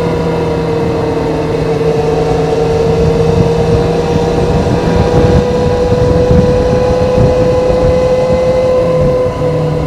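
Kawasaki ZZR400 inline-four with its stock exhaust running at steady cruising revs, one even tone with a rough rushing noise beneath. Near the end the pitch and loudness dip slightly as the throttle eases.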